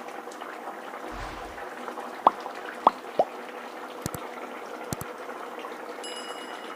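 Thick chicken gravy simmering uncovered in a kadai, bubbling steadily with a few sharp bubble pops about two to three seconds in; the gravy has cooked down and thickened.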